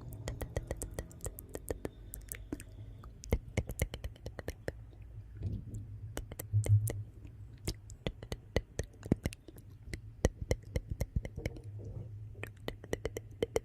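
Wood fire crackling in a fireplace: irregular sharp pops and snaps over a low steady rumble, with a louder burst about seven seconds in.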